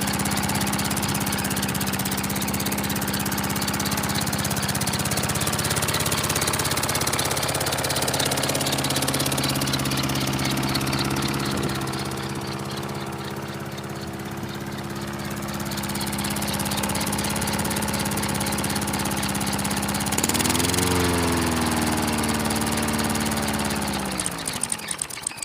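Mountfield Emperor petrol lawnmower engine running steadily just after a hard cold start. About 20 seconds in it speeds up, then near the end it winds down and stops.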